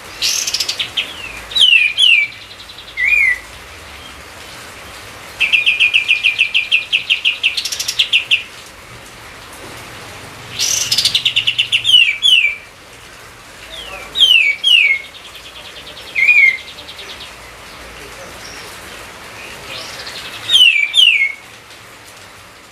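A songbird singing in repeated phrases about every five seconds: a fast, rattling trill, then several quick down-slurred whistled notes, over a steady background hiss.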